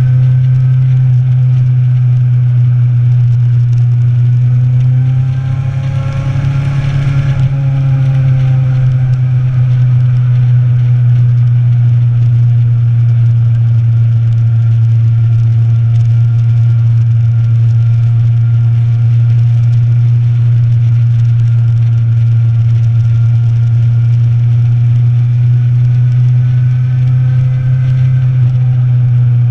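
Motorcycle engine running at a steady cruise, heard from on board the bike. About six seconds in, the engine note dips and briefly swells up and back down in pitch.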